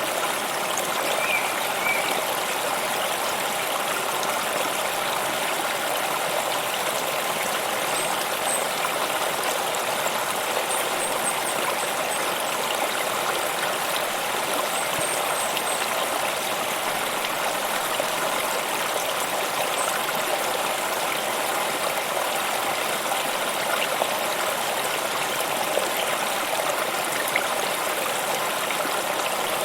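A stream of running water, flowing and trickling steadily, with a few faint, short high chirps.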